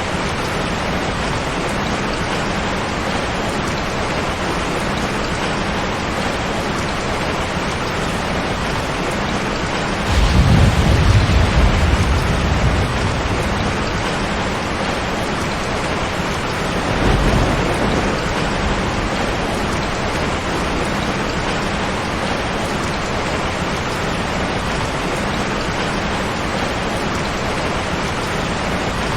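Steady heavy rain with a constant hiss. About ten seconds in, a low roll of thunder rises suddenly and lasts a few seconds, and a fainter rumble of thunder follows about seven seconds later.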